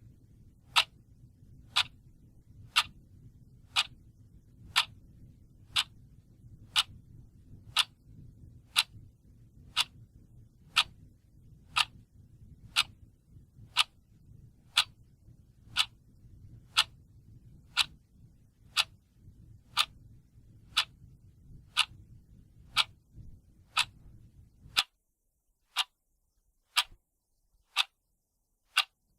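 Clock ticking steadily, one sharp tick a second, over a faint low background noise that cuts off suddenly near the end.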